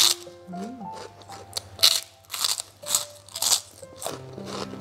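Crispy deep-fried pork skin cracklings crunching as they are bitten and chewed: a sharp crunch at the bite, then a run of chewing crunches from about two seconds in. Soft background music with single held notes plays underneath.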